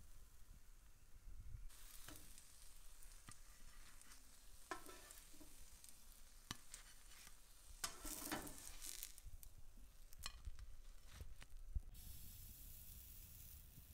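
Zucchini-and-egg fritters frying in shallow oil in a nonstick pan: a faint sizzle, with spatula scrapes and taps as the cooked fritters are lifted out. About twelve seconds in, a fresh spoonful of batter goes into the hot oil and the sizzle grows louder.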